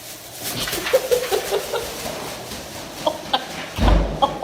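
A series of short animal calls, one after another, with a dull low thump about four seconds in.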